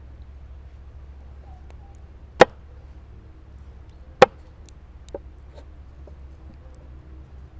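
Two sharp chopping strikes about two seconds apart, with a lighter knock about a second after the second one.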